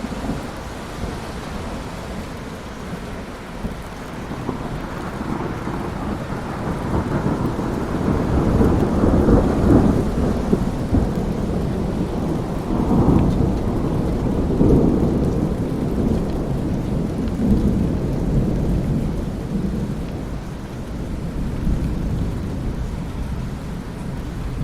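Steady rain with a long, low roll of thunder that builds about a third of the way in, peaks in the middle and slowly fades.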